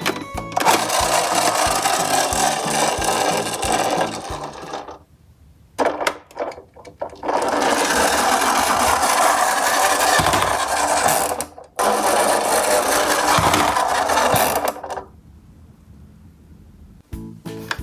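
Small toy garbage trucks' plastic wheels rolling and rattling down a slope, in runs of a few seconds each. There are about three runs, with pauses between them.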